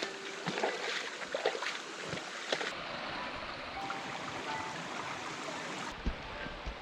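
Stream water rushing over rocks, a steady hiss, with scattered short splashes and taps during the first few seconds.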